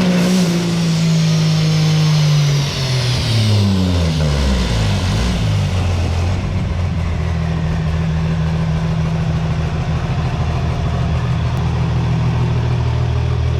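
Turbocharged Cummins diesel engine held at high revs, then dropping back to a steady idle about three to six seconds in, while a high turbo whistle winds down.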